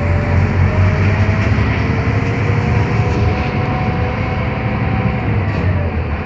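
Scania K320UB hybrid bus heard from inside the cabin while driving: a steady low drivetrain hum with a faint whine that drifts slowly lower.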